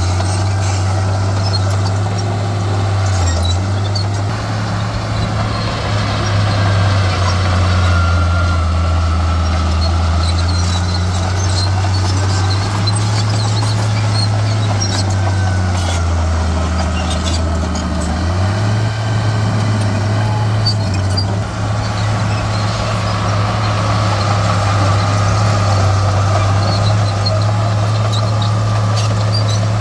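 Heavy diesel earthmoving machinery running, the deep engine note shifting up and down in steps as it works, with faint scattered high-pitched ticks and squeaks over the top.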